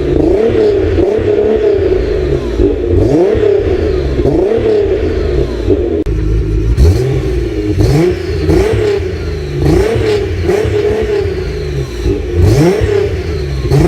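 Nissan GT-R R35's twin-turbo V6 revving, its pitch rising again and again about once a second over a steady low rumble.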